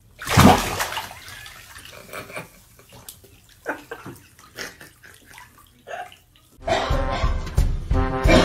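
Water splashing loudly about half a second in, followed by scattered smaller splashes and knocks. Swing-style music with brass starts about six and a half seconds in.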